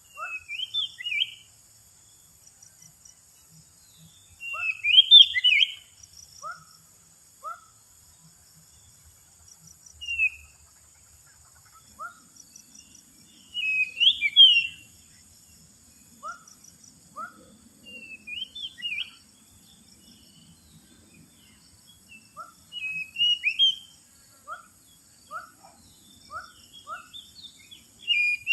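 Oriental magpie-robin (kacer) singing in loud, varied whistled phrases every few seconds, with runs of short, lower, downward-sliding notes between them. This is a lure call for trapping the bird, over a steady high hiss.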